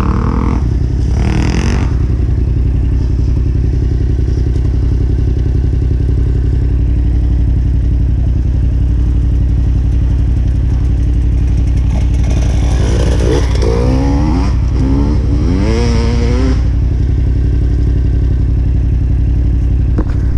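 Yamaha Ténéré 700 motorcycle engine running steadily at low revs, with a second engine note wavering up and down in pitch from about 12 to 16 seconds in, as of another trail bike being revved.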